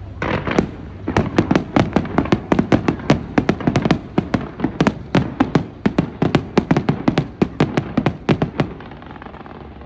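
Fireworks going off in a rapid volley of sharp cracks, about five a second, which stops shortly before the end.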